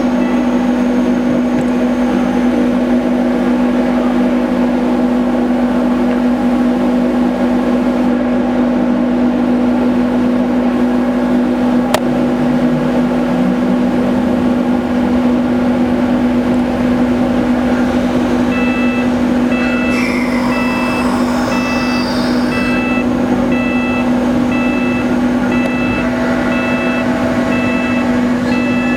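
Steady, loud low-pitched hum of a large ferry's machinery as the vessel pulls away. About two-thirds of the way through, an evenly repeating series of electronic beeps joins in over the drone.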